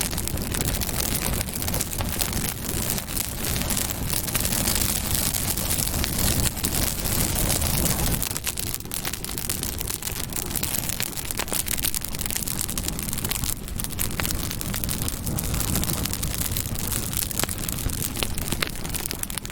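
Campfire burning: wood crackling with many small sharp pops over a steady low rumble of the flames.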